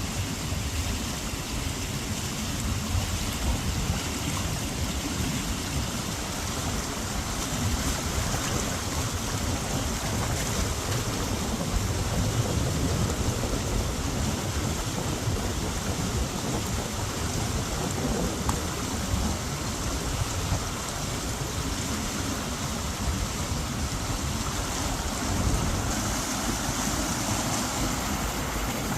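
Steady rush of water in a mountain stream, an even noise with a rumbling low end.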